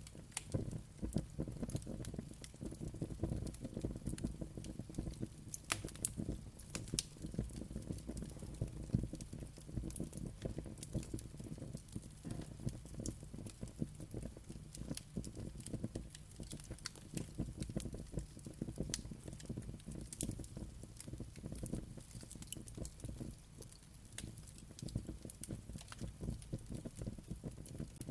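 Wood fire burning with a low steady rumble and frequent irregular crackles and pops.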